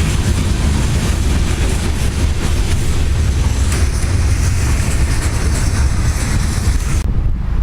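Train rumbling past, a dense steady low rumble with hiss over it; the high hiss drops away suddenly near the end.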